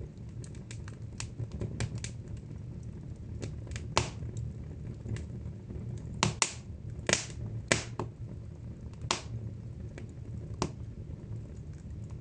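Wood fire in a fireplace crackling: irregular sharp pops and snaps over a low steady rumble, with a handful of louder snaps about four seconds in and again between six and nine seconds.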